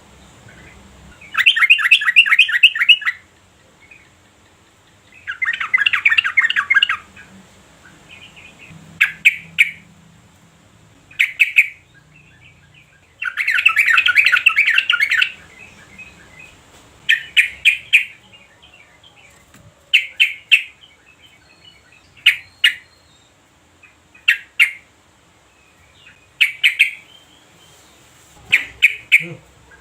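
Yellow-vented bulbul calling: three longer bursts of rapid chattering notes, with short phrases of a few notes every couple of seconds between them.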